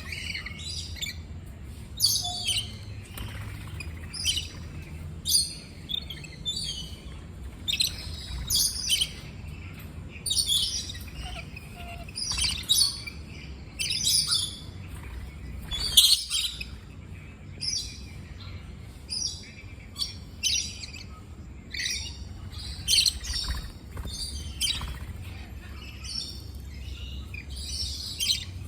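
Parrots chirping: short, sharp, high-pitched calls repeating every second or so, the loudest about sixteen seconds in.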